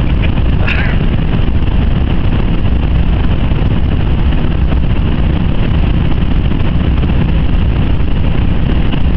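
Jaguar XJ 5.0 supercharged V8 running flat out near its top speed, heard from inside the cabin as a loud, steady roar of engine, wind and tyres.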